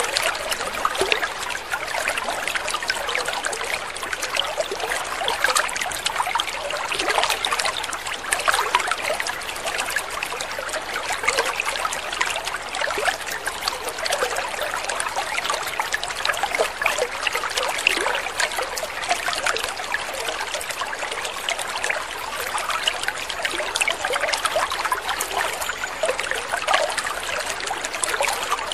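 Water trickling steadily, a continuous fine patter of small splashes with no let-up.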